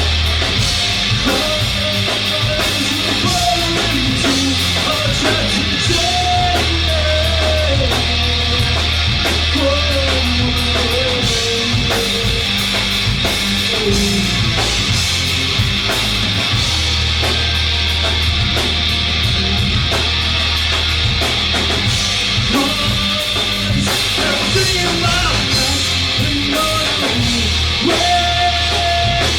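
Live rock band playing loud: a drum kit keeping a fast, even beat under held low bass notes, with a melody line sliding in pitch above.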